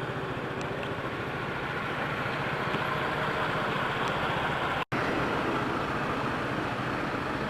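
Yamaha BWS125X scooter's single-cylinder engine running steadily with road and traffic noise, through its quiet stock muffler. The sound cuts out for an instant near the middle.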